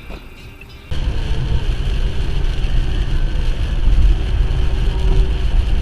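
Steady low rumble of a vehicle on the move, road and wind noise on a dash camera's microphone, starting abruptly about a second in.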